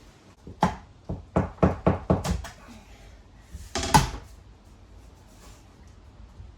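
Flooring planks being knocked into place: a quick run of about eight knocks over roughly two seconds, then one louder knock about four seconds in.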